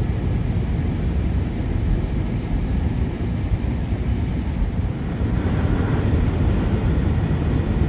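Strong storm wind buffeting the microphone: a steady, loud, low rumble with no breaks.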